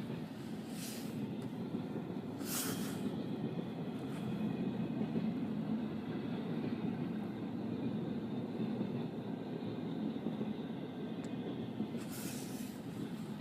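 Train rolling past: a steady low rumble of rail cars on the track, with three brief hissing surges, twice early on and once near the end.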